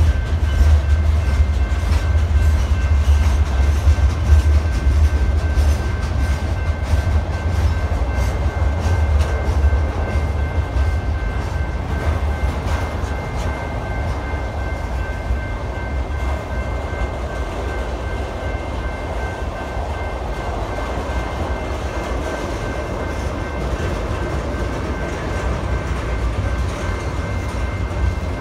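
Freight train cars rolling past: gondolas, tank cars and a covered hopper, making a steady rumble of wheels on rail that is heavier in the first half. A faint steady high-pitched tone runs through it.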